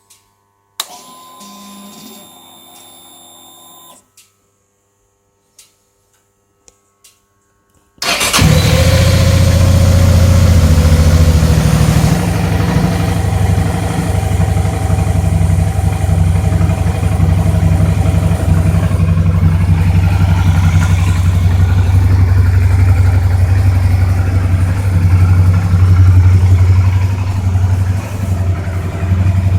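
Suzuki V-Strom DL650's V-twin engine starting: a short whir and a few clicks, then about eight seconds in the engine catches at once and settles into a loud, steady idle.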